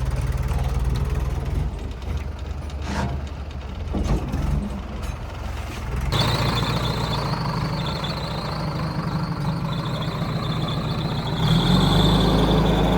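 Heavy diesel engine running steadily, with two short bursts of noise about three and four seconds in. About six seconds in the sound changes abruptly and a steady high whine joins the engine, which grows louder near the end.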